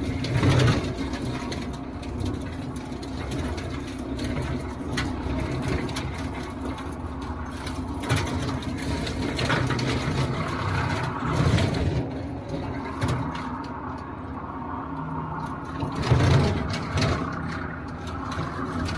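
Diesel engine of a TYM T574 compact tractor running steadily under work, swelling louder a few times as it is throttled up or loaded.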